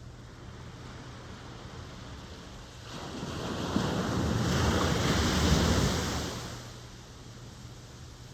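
Ocean wave breaking and rushing up the shore: the rush of surf builds about three seconds in, peaks, then fades away by about seven seconds, over a low steady background hiss.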